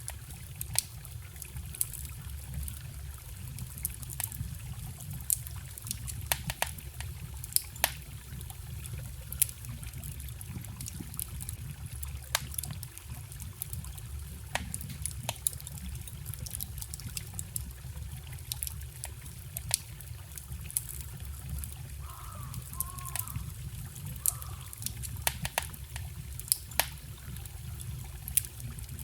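Wood campfire crackling with frequent, irregular sharp pops over the steady trickle of a small forest stream.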